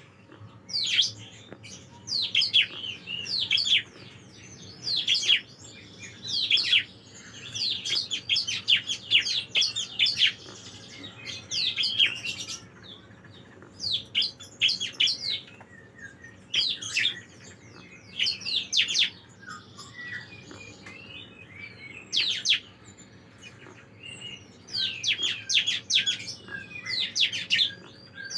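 Bar-winged prinia (ciblek) singing: rapid runs of sharp, high, downward-sweeping chirps in bursts of about a second, repeated after short pauses.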